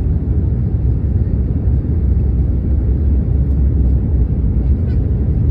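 Steady low rumble of an airliner in flight, its engines and rushing air heard inside the passenger cabin.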